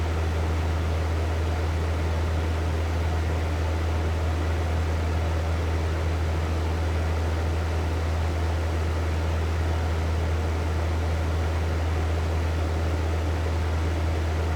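Hair dryer running steadily: an even rush of air over a strong, constant low hum.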